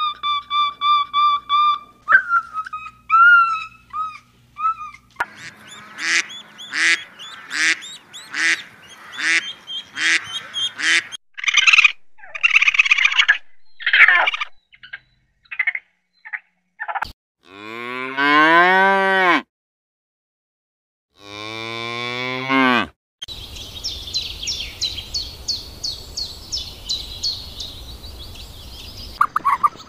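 A string of different animal calls, one after another: short repeated high calls and chirps, then two long low calls that rise and fall in pitch, then a fast run of chirps.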